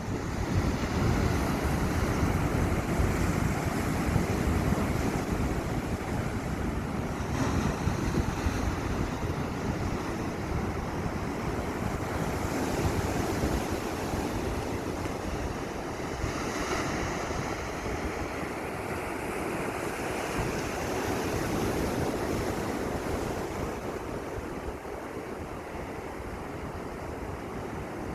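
Sea waves breaking and washing on the shore, a steady rush that swells and eases, with wind buffeting the microphone.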